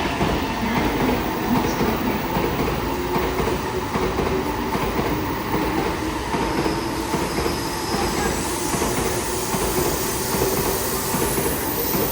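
Commuter train rolling along the station platform, with a steady rumble and clatter of steel wheels on the rails.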